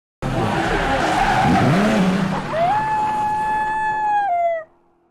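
A loud, harsh rush of noise starts suddenly. About two and a half seconds in, a single coyote howl rises, holds steady and drops away near the end.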